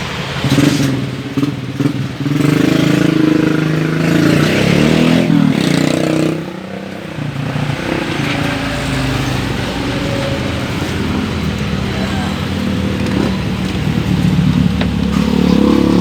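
A motor running, its pitch rising and falling several times, with a brief drop in level about six seconds in.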